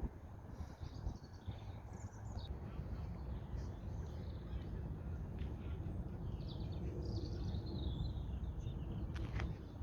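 Small birds chirping and trilling on and off over a steady low outdoor rumble, with a few sharper calls near the end.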